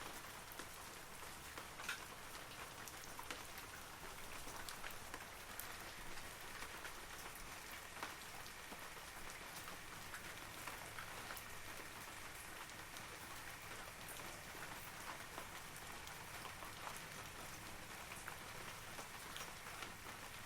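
Steady rain falling on forest trees, an even patter with many separate drops striking leaves close by.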